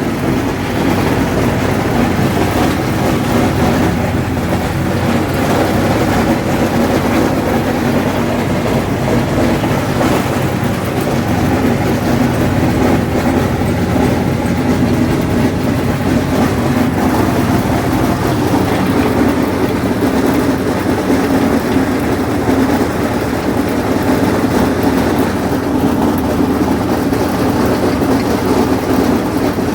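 Allis-Chalmers 7000 tractor's diesel engine running steadily under load while pulling a haybine that is mowing hay.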